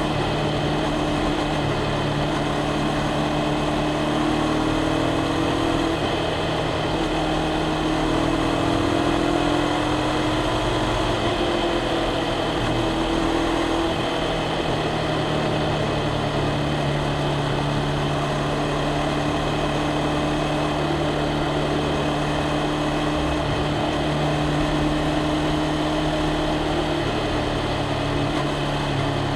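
Honda CBR500R's parallel-twin engine and exhaust running at a nearly steady pitch, with only small rises and falls in engine speed.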